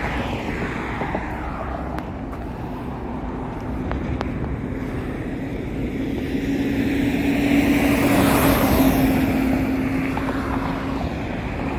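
Road traffic going by, one vehicle passing close and loudest about eight seconds in before fading.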